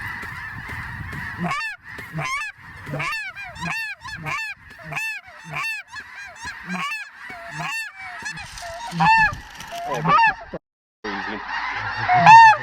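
A large flock of snow geese calling as they come in: a dense, continuous chorus of honks with loud, close single calls repeating about twice a second. The sound cuts out for a moment near the end, then the chorus resumes.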